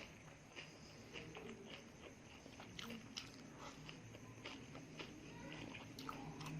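Close-miked chewing and biting of food: a quiet, irregular run of small crisp clicks and crunches.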